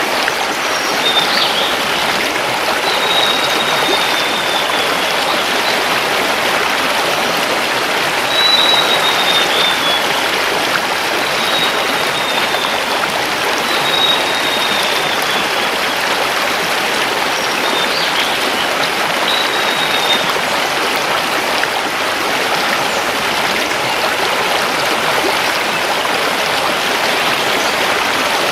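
Mountain river rushing steadily over stones. Above it, a forest bird gives short, thin, high whistles that fall slightly in pitch, about seven times over the first twenty seconds.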